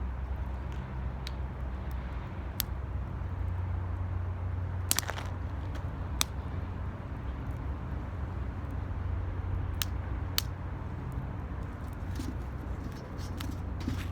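Wood fire burning in an 18-litre square metal can: scattered sharp crackling pops, a few seconds apart, over a steady low rumble.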